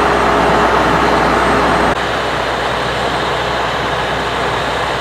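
Steady roar of vehicle engines and road traffic that drops suddenly in level about two seconds in.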